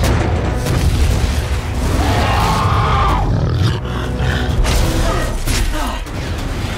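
Film battle sound design: the kaiju Leatherback roaring, with heavy booming impacts and a deep rumble under loud orchestral score.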